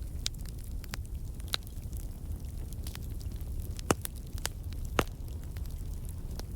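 Wood fire burning in a fireplace: a steady low rumble of flames with scattered crackles from the burning logs, and two louder pops about four and five seconds in.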